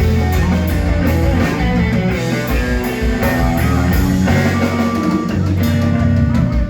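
Live blues-rock band playing a slow blues: electric guitar over bass and a drum kit, with cymbals struck in a steady beat.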